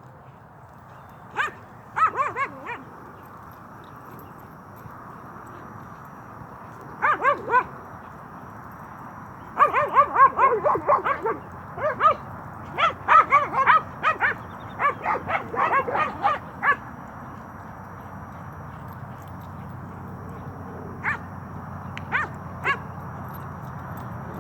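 Dogs play-barking and yipping in quick runs of short, high barks. The barks come in clusters, the longest lasting several seconds midway, with a few single yips near the end.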